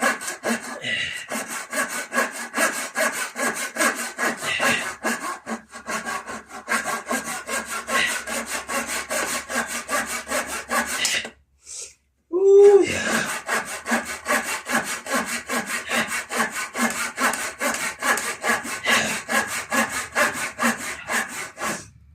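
Hand saw cutting with quick, even back-and-forth strokes. The strokes stop for about a second near the middle, then start again.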